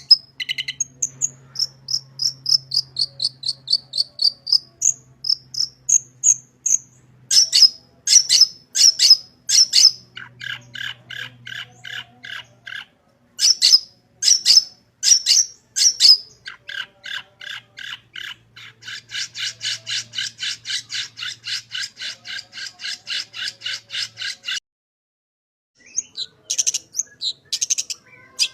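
Long-tailed shrike (cendet) singing loudly in a varied medley: sliding whistles, sharp repeated chirps and long fast trains of rapidly repeated notes, the 'isian' of mimicked songs of other birds. The song breaks off for a moment near the end and then resumes.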